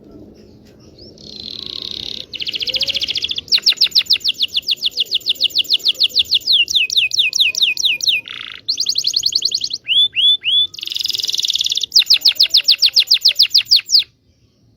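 Canary singing a long song of rapid trills: buzzy rolls, a long run of fast repeated sweeping notes, three short downward whistles about ten seconds in, and a final fast trill that cuts off near the end. A local Indonesian canary song used as a lure song to prompt other canaries to sing.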